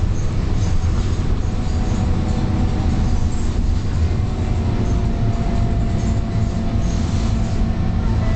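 Scania K230UB single-deck bus heard from on board, its engine and drivetrain running steadily with a low rumble, a faint whine in the middle and scattered light rattles.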